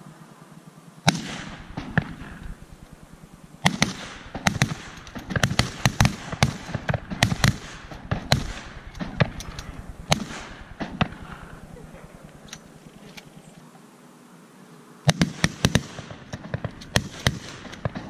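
A rapid volley of shotgun shots from several hunters firing at once, dozens of sharp reports overlapping. There are a couple of shots about a second in, a long dense barrage after that, a lull, and another burst of shots near the end.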